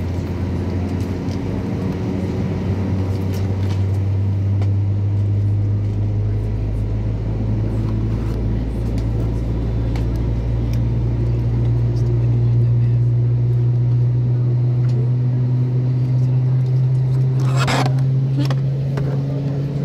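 Airbus A321 jet engine spooling up during start, a steady low drone that slowly rises in pitch. A short sharp noise cuts in near the end.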